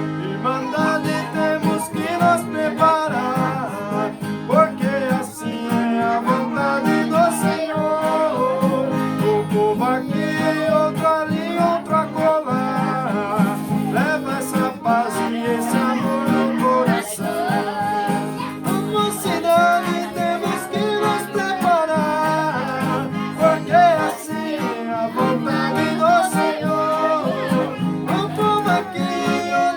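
A male voice singing a hymn melody, accompanied by accordion and a strummed acoustic guitar.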